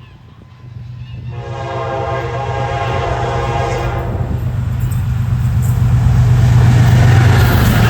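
Train horn sounding one steady blast of about two and a half seconds, starting a second and a half in. A deep rumble and rail noise then grow louder as the train draws near.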